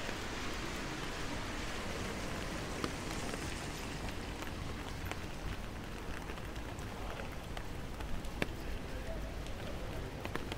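Steady rain falling on a wet city street, with scattered drops ticking close by. A car's tyres hiss past on the wet road during the first few seconds.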